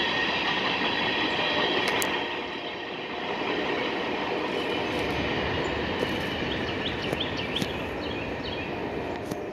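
Railroad cars rolling past on the track, with a high wheel squeal for the first two seconds; the rolling noise then eases slightly.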